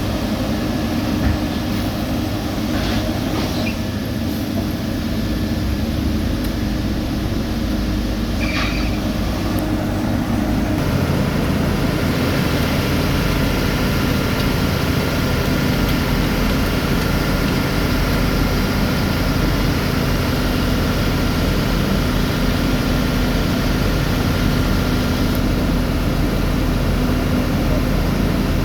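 Heavy diesel road-paving machinery running steadily, with a steady engine drone whose note shifts about a third of the way through.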